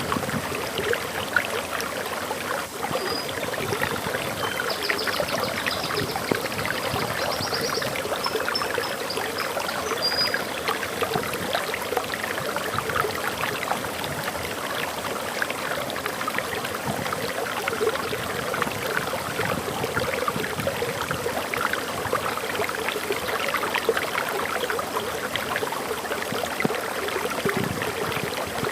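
Water pouring and splashing steadily over a small forest waterfall. A few faint, high bird chirps come through in the first third.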